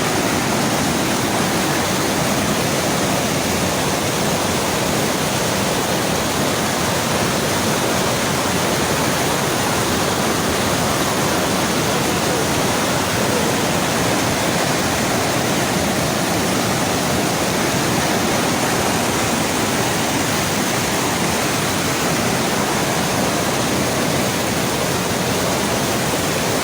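Courtallam Main Falls in heavy flood: a waterfall pouring down in a loud, unbroken rush.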